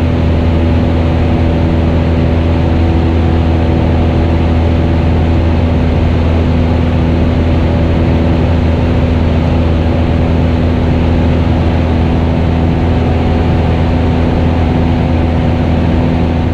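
Cessna 172RG's 180 hp four-cylinder engine and propeller running steadily in flight, a loud, even drone with no change in pitch.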